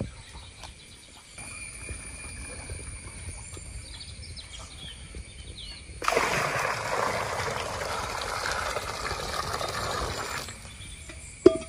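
Water poured from a small steel jug into a small steel bucket, a steady splashing trickle that starts about six seconds in and stops abruptly about four seconds later. A short sharp click comes just before the end.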